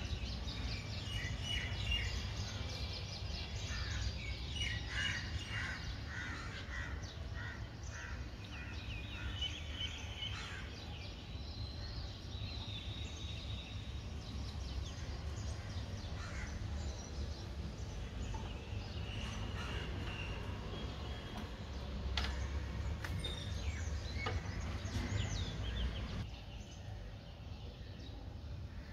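Birds calling: many short repeated calls, busiest in the first ten seconds and again near the end, over a low steady rumble.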